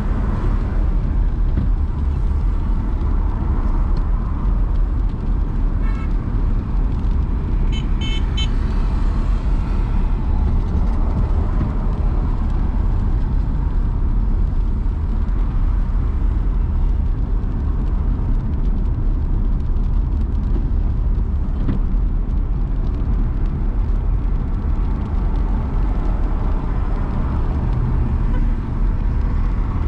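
A car driving in city traffic, with a steady road and engine rumble. A car horn gives a few short toots about eight seconds in.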